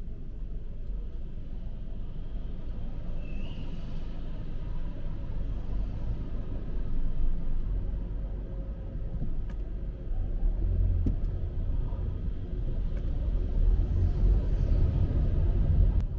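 Low rumble of city street traffic, growing heavier about ten seconds in.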